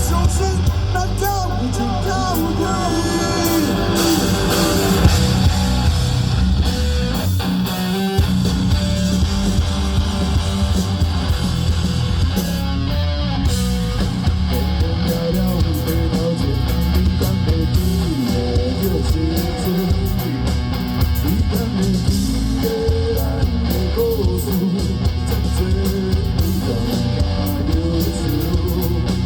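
Live rock band playing a passage without vocals, electric guitar lines over bass and drums.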